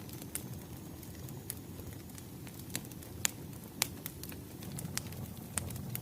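Wood fire crackling: a steady low rumble with sharp, irregular pops of burning firewood, the loudest a little past three seconds and just before four seconds.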